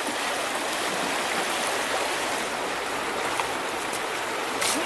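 River water flowing steadily, with a brief sharp splash-like tick near the end.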